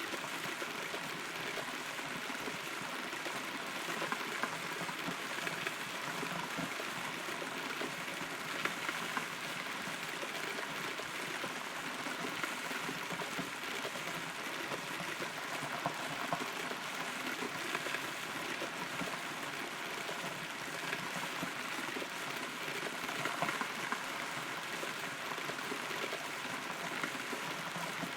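Steady rain heard from inside a hollow rotten tree, a constant patter with scattered louder drops now and then.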